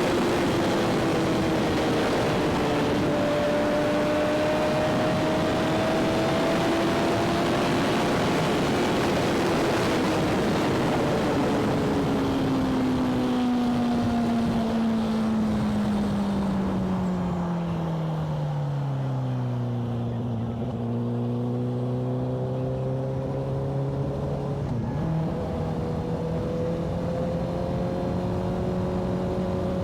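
Motorcycle engine under way with wind rushing over the microphone, holding a steady cruising note. About halfway through it slows: the engine note falls steadily and the wind noise dies away, then it runs low and even, picking up slightly near the end.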